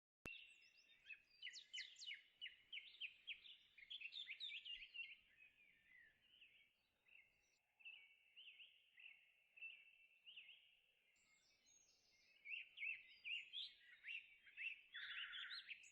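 Faint songbirds chirping and singing in quick runs of high, sliding notes. The notes are busiest in the first few seconds, thin out in the middle, and pick up again near the end.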